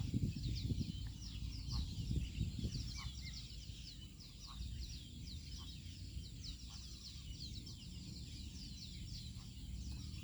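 Small birds chirping continuously, a quick run of short high chirps that each slide downward in pitch. Under them a low rumbling noise, strongest in the first couple of seconds.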